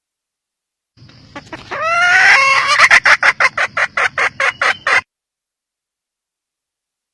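Red junglefowl hen calling: a few rising notes that run into a fast string of clucks, about five a second. The call starts about a second in and cuts off abruptly after about four seconds.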